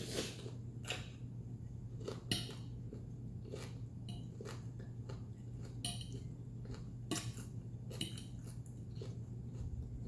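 Someone eating chicken wings and green beans: chewing, with about a dozen irregular clicks and clinks of cutlery on a dish, over a steady low hum.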